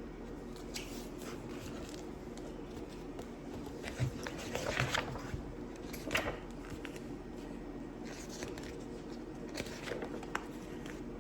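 Paper picture book being handled and its pages turned: a few soft rustles and clicks over a steady low room hum.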